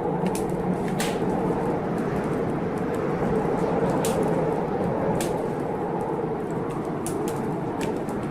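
Heavy blizzard wind blowing steadily, with a wood fire crackling in scattered sharp pops.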